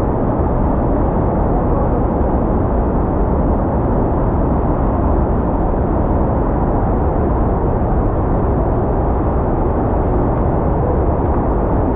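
Steady low rumble of a vehicle riding along, with no distinct events.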